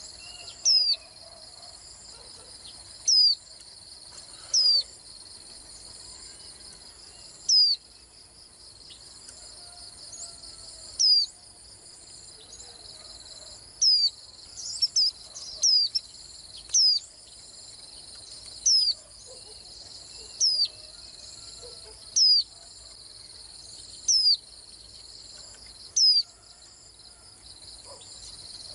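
White-eye giving short, high call notes that sweep down in pitch, repeated every second or two, about fifteen in all, with a quick cluster a little past the middle. A steady high trill of insects runs underneath.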